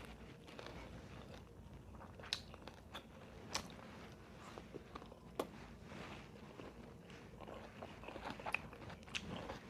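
Close-up eating sounds: a person chewing and biting crunchy food, with a few sharp crunches standing out among softer chewing clicks.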